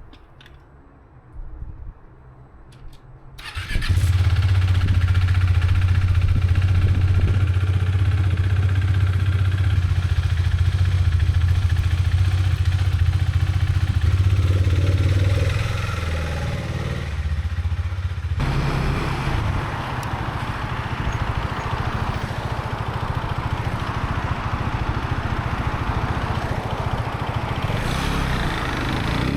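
Husqvarna Svartpilen motorcycle engine starting about three and a half seconds in, then idling steadily with a strong low hum. Partway through it changes abruptly to the sound of the bike being ridden: engine running under way with wind rushing past.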